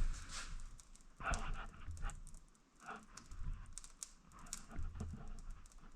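Irregular crackling clicks from a wood fire in a fireplace, with a few dull knocks mixed in.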